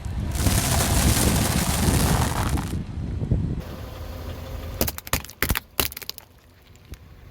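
A car engine runs as its tyre rolls over things and crushes them, with a loud crunching noise at first and a quick run of sharp cracks about five seconds in.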